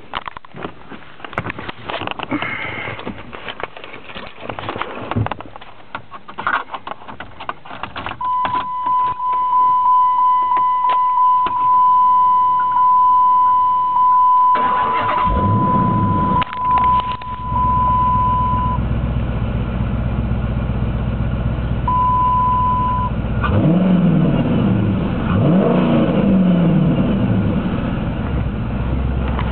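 Clicks and rattles, then a steady warning chime. The 2007 Dodge Charger SRT8's 6.1-litre Hemi V8 is cranked and starts about halfway through, then idles through a 3-inch Mopar exhaust with aftermarket mufflers. The engine is blipped twice near the end.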